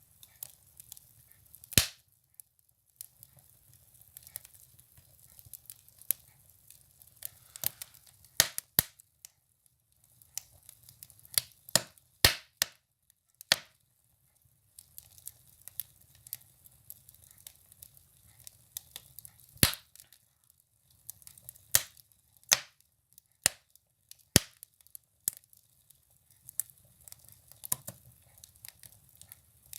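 Firewood burning in a stove, crackling with irregular sharp pops, the loudest a few seconds apart, over the faint low rush of the flames.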